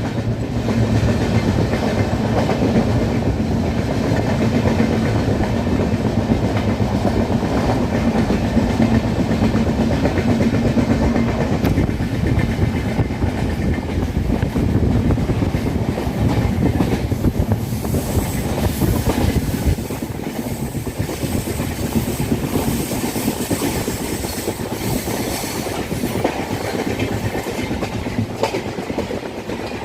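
Passenger train running at full speed, heard from on board: a steady, loud rush of wheels on rails. A low steady hum underneath fades out about twelve seconds in, and more hiss comes in about eighteen seconds in.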